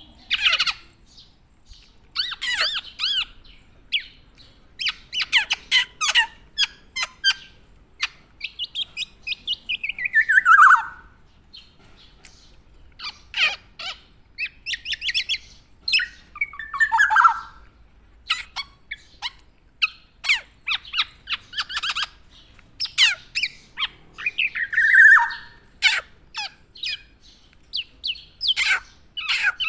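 Black-naped oriole (kepodang) calling busily: bursts of short, sharp chirps, with three longer harsh calls that slide down in pitch, about a third of the way in, around the middle, and near the end.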